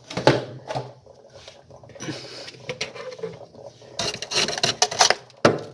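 Hard knocks and scraping against a solid build-up of ice inside a Haier double-door refrigerator's freezer, as it is struck and chipped. A few separate knocks come first, then a rapid burst of scraping and knocking about four seconds in, and sharp knocks near the end.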